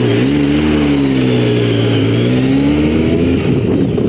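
Motorcycle engine running on the move, its pitch dipping and then rising again with the throttle, over a steady rush of noise.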